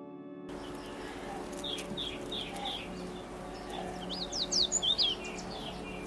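Small songbird calling: a run of about five short, evenly spaced chirps, then a quick burst of higher whistled notes that sweep up and down.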